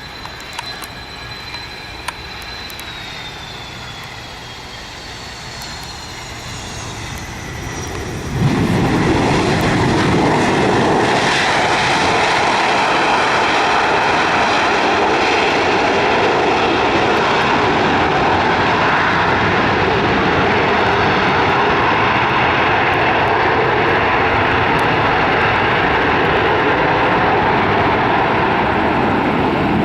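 Jet aircraft engines: high whines falling in pitch over the first few seconds, then about eight seconds in a sudden, loud, steady jet roar that holds.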